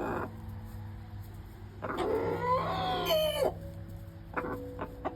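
Rooster crowing once, a long call of about a second and a half starting about two seconds in, followed near the end by a quick run of short clucks.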